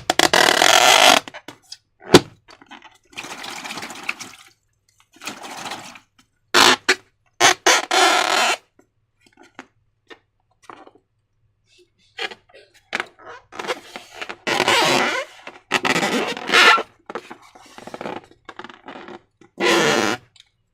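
Wet slime squelching as it is squeezed and worked by hand, in irregular bursts of varying length, with one sharp snap about two seconds in.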